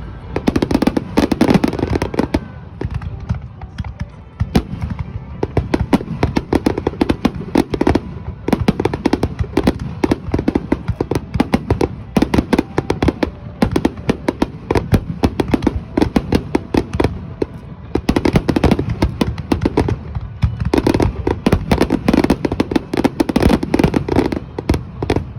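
Aerial fireworks display in a dense barrage: many sharp bangs and crackles a second, one shell burst after another with no break.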